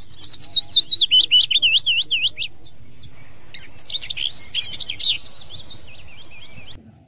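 Songbird singing: a rapid run of high, looping chirps, loudest over the first two and a half seconds, then a softer, busier twittering that cuts off abruptly near the end, over a faint low hum.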